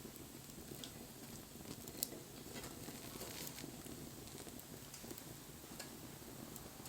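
Campfire burning: faint scattered crackles and small pops over a low steady rush, with one sharp pop about two seconds in.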